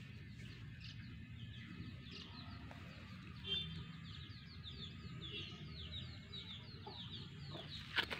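Birds chirping: a rapid run of short, high, falling chirps, several a second, over a steady low rumble, with a sharp click just before the end.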